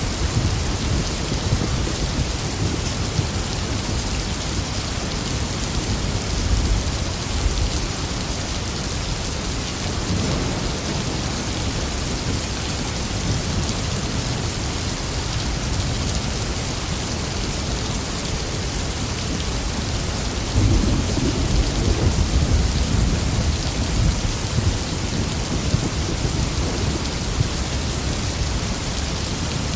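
Steady rain pouring down with rolling thunder rumbling low beneath it; the thunder swells loudest about two-thirds of the way through.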